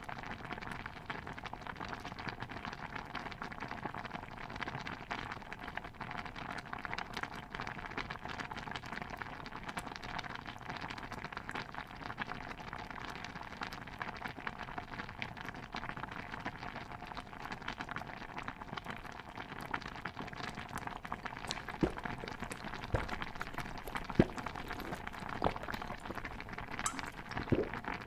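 A pot of stew bubbling steadily, a dense crackle of popping bubbles, with a few sharper, louder pops or knocks near the end.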